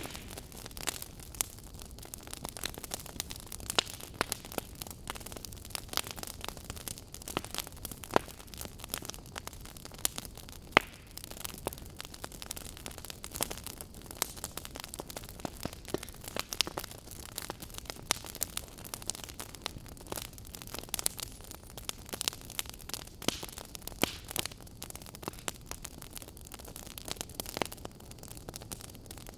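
Wood fire burning: a steady hiss with frequent irregular crackles and sharp pops of the burning logs.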